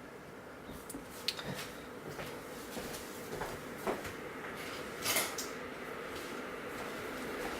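Scattered light knocks and clicks of kitchen things being handled and set down, the loudest about five seconds in.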